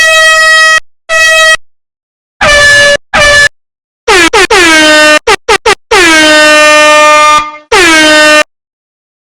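Air horn blown in a series of loud blasts: two high blasts, then shorter ones and a quick run of staccato toots, then a long blast and a final one. Each later blast dips in pitch as it starts and settles on a lower note than the first ones.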